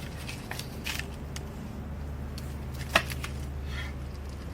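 Light clicks and rustling from hand-handling tools and parts, with one sharper click about three seconds in, over a steady low hum.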